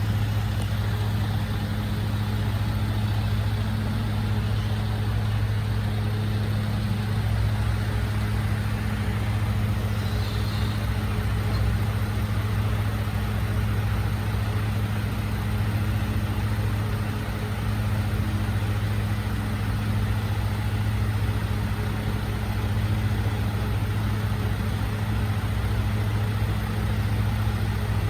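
Recycling truck's engine idling steadily with a low, even hum.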